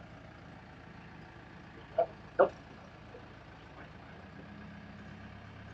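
A heavy vehicle's engine idling steadily, its note shifting slightly about four seconds in.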